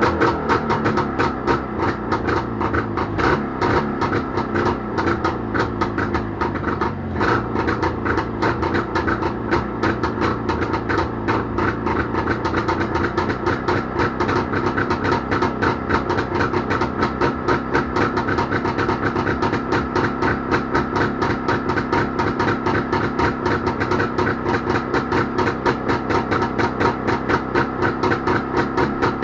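Jawa motorcycle engine running steadily at idle with an even, rapid exhaust beat, on its first run after a repair.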